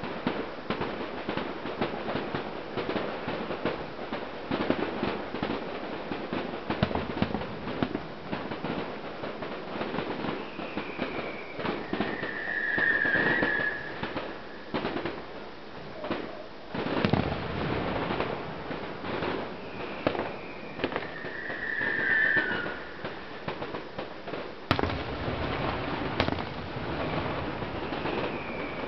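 Fireworks display: a continuous run of bangs and crackles, with heavier bursts twice and a short high whistle three times, about eight to ten seconds apart.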